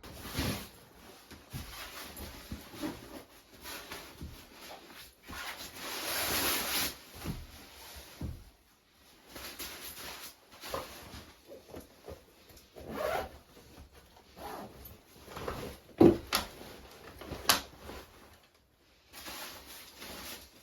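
Irregular rustling and scraping of things being handled, with scattered knocks: a longer rasping rustle about six seconds in and a sharp knock about sixteen seconds in.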